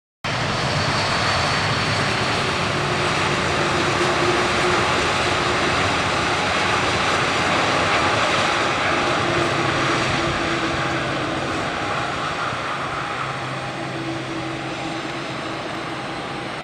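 Boeing 787 Dreamliner jet airliner landing, its engines a steady loud rush with a few whining tones; the sound slowly fades over the second half.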